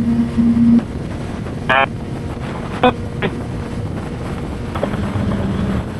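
Wind rushing over the helmet microphone with road and engine noise from a motorcycle at highway speed, a steady rush broken by a few short blips about two and three seconds in.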